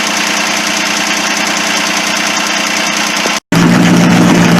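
Turbocharged diesel engine of a modified garden tractor running steadily. About three and a half seconds in, the sound cuts out for an instant and a louder engine with a strong steady low hum takes over.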